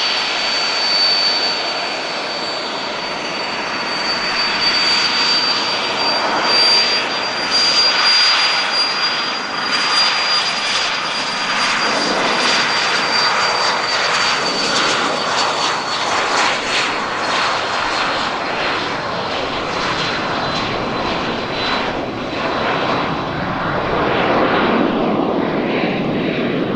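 Cessna Citation CJ2 business jet's twin turbofans heard climbing away after take-off: a broad jet rush with a steady high-pitched whine. The whine slowly drops in pitch and fades out about two-thirds of the way through.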